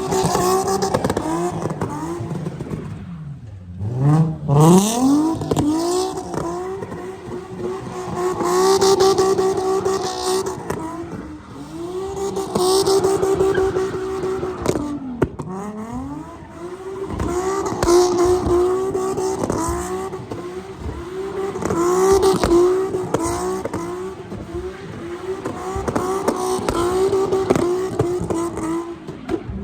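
A car engine held at high revs while drifting, its pitch dropping sharply and climbing back twice, with bursts of tyre screech.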